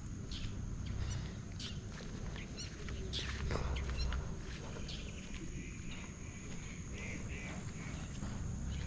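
Outdoor evening ambience during a walk: scattered bird chirps and a quick run of short calls about two and a half seconds in, over a steady high-pitched whine, with footsteps and light clicks along the trail and a low rumble of wind.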